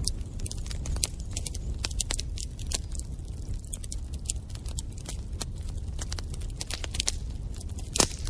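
Wood fire in a fireplace crackling, with many quick sharp pops over a steady low rumble of the flames, and one louder pop near the end.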